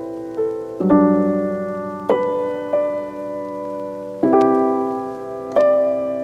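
Background music: slow, gentle piano chords, struck about once every second or so and left to ring and fade.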